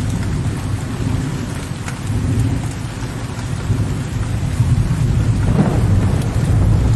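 Steady rain with low, rolling thunder rumbling underneath, the rumble swelling a little toward the end.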